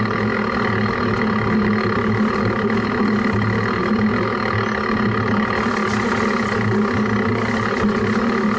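An engine running steadily at constant speed, a low, even drone.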